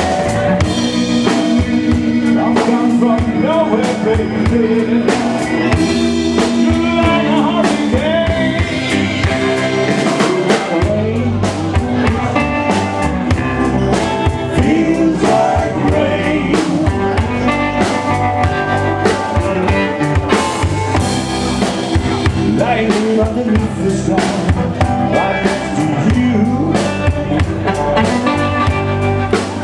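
Live blues band playing, with drum kit, electric guitar, keyboard and bass guitar, and some singing.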